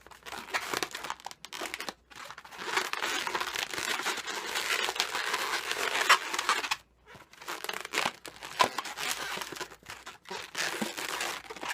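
Inflated latex modelling balloons being handled and twisted, rubber rubbing on rubber, in two long stretches with a short pause about seven seconds in.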